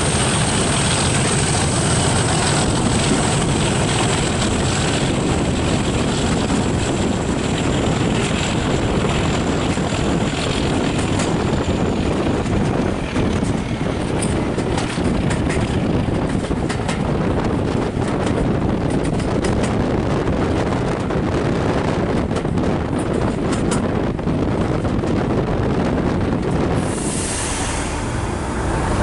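Moving train heard from an open carriage window: wind rushing over the microphone and the rumble of wheels on the track, with scattered clicks, and the English Electric V12 diesel of Class 37 locomotive 37714 working at the head of the train. A faint high steady whine in the first ten seconds or so falls slightly in pitch.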